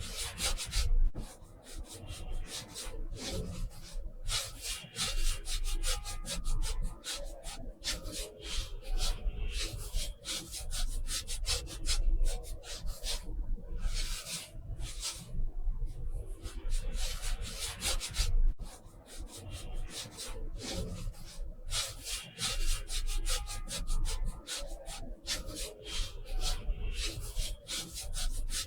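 A brush rubbing across textured watercolor paper in a long run of short, irregular strokes with brief pauses between them.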